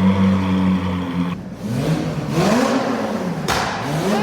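Car engine running steadily, then revved several times, its pitch rising and falling with each blip.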